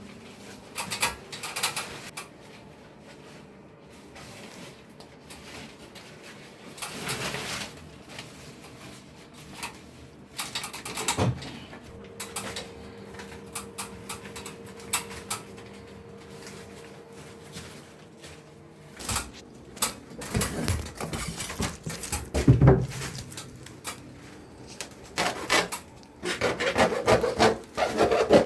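Hands wrapping and smoothing canvas aluminum tape around insulated chiller pipe: irregular rubbing and scraping with scattered sharp crackles, denser and louder near the end.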